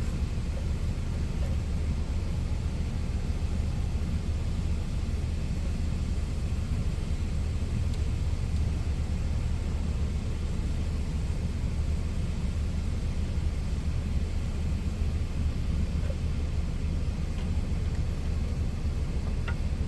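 Truck engine idling: a steady low rumble that holds even throughout.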